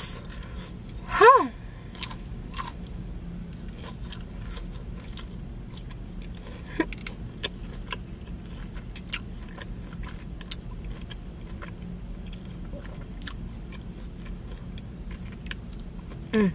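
Close-up chewing and biting of a potato-crusted Korean cheese corn dog, with many small wet mouth clicks and crunches. A short falling hum of the eater's voice comes about a second in, and again near the end.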